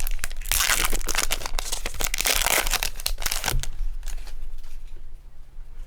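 Foil Pokémon booster pack wrapper being torn open and crinkled for about three and a half seconds, then quieter rustling as it is handled.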